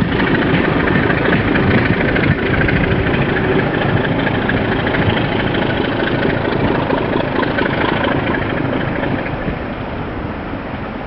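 British Rail Class 27 diesel locomotive's Sulzer six-cylinder engine running under power as it hauls its train away. The engine sound grows fainter over the last few seconds.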